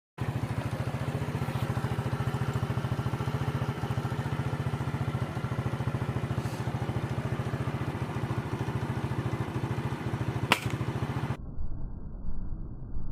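An engine runs steadily with a fast, even pulse. A single sharp crack sounds about ten and a half seconds in, and the audio then cuts to a duller, muffled recording near the end.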